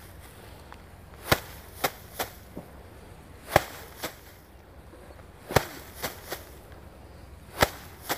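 Bundles of rice stalks being beaten by hand against a hard surface to thresh the grain off. A sharp strike comes about every two seconds, each followed by one or two lighter knocks.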